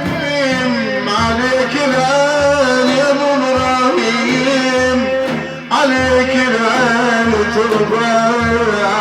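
A male praise singer chanting a long, wavering, drawn-out melody of Sufi devotional praise song for the Prophet over steady low drum beats. The voice drops out briefly a little past halfway and comes back in.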